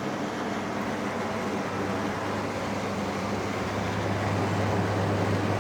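LG air conditioner running, a steady rush of airflow with a low vibration hum underneath that grows stronger about two seconds in. The hum is a little vibration noise the new unit should not be making.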